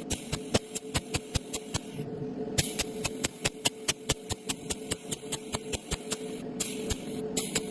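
TIG welding arc: a rapid, even clicking about five to six times a second over a steady hum and hiss, the hiss dropping out briefly about two seconds in.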